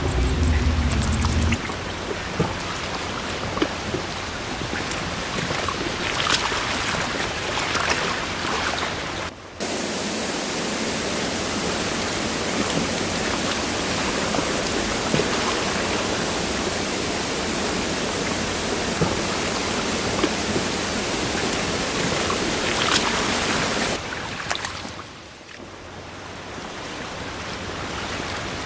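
Steady rushing noise of flowing water, changing abruptly about a third of the way in to a flatter, even rush and back again near the end.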